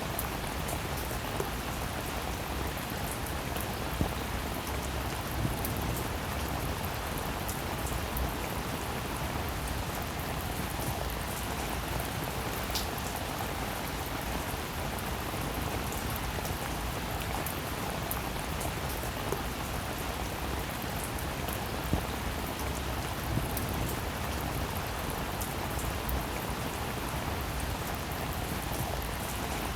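Steady rain falling: an even hiss of rainfall with scattered single drops ticking out louder now and then.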